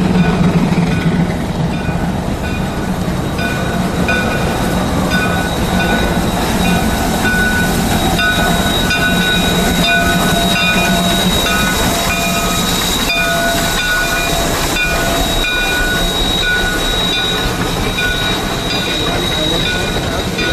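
Narrow-gauge steam train rolling slowly past at close range, the locomotive and then a string of open gondola cars, with steady rumbling noise. Over most of it the wheels squeal in high, thin tones that come and go, and a low hum fades over the first few seconds.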